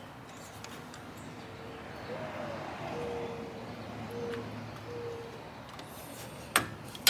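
A dove cooing, a short series of low, steady notes with one rising-and-falling note among them. Near the end there is a single sharp click.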